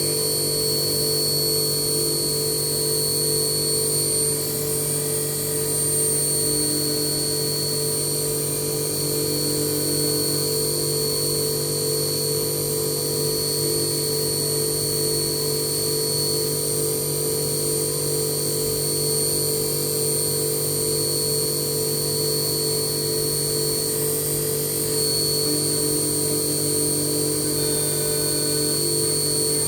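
HAAS CNC milling machine running a cut: a steady high-pitched whine over a low, even hum, holding the same level throughout.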